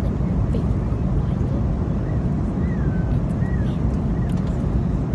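Steady low rumble of an airliner's cabin noise in cruise flight, from engines and rushing air.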